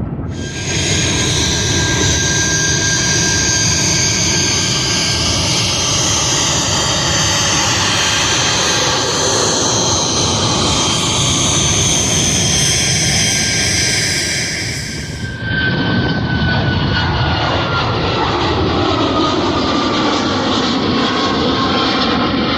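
Jet airliner engines at takeoff thrust: a loud, steady roar with a whine. About 15 seconds in the sound changes abruptly, and the whine then falls slowly in pitch as the plane passes.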